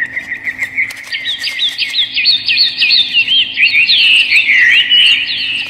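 Birds chirping: a rapid, unbroken run of short high chirps, several a second, growing denser and louder from about a second in as calls overlap.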